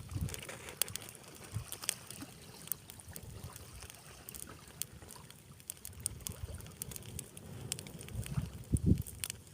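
Campfire crackling with irregular sharp pops, while wind buffets the microphone in low gusts, strongest near the end.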